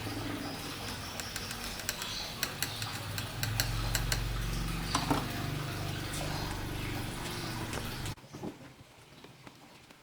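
Scattered light clicks and taps of small hard objects over a steady low hum; the hum cuts off abruptly about eight seconds in.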